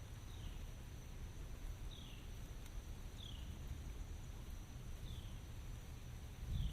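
Outdoor nature ambience: a steady low rumble with a short, high, falling chirp repeating about every second and a half from a bird or insect.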